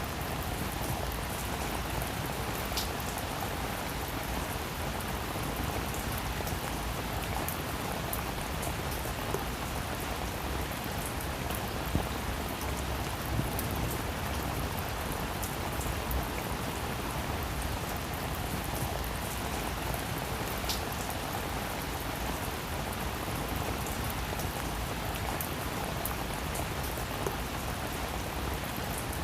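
Steady rain falling on a roof, with scattered sharper drops ticking through the even hiss.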